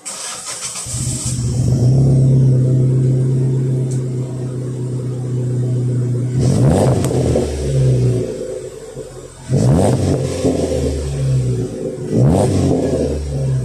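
Proton Persona's 1.6-litre four-cylinder engine through an HKS muffler on a direct pipe, starting up and settling into a deep, steady idle drone, then revved three times, each rev rising and falling back to idle.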